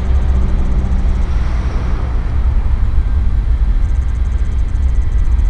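BNSF diesel freight locomotives running under a notched-up throttle as the train picks up speed: a steady, heavy low rumble.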